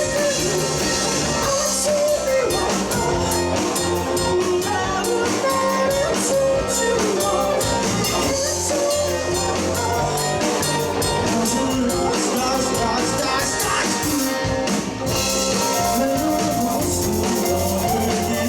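Live rock band playing a passage of the song with guitars, bass guitar and drum kit.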